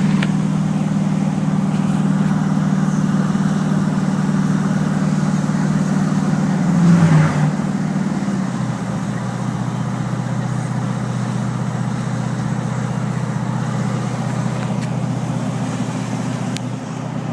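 Duramax diesel engine droning under exhaust braking as the truck slows, its note sagging slowly. A brief louder surge comes about seven seconds in, then the engine drops to a lower, steady note.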